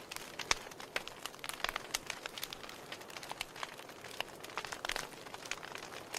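Wood fire crackling in a fireplace: irregular sharp pops and snaps of burning logs over a soft steady hiss, with a loud pop about half a second in.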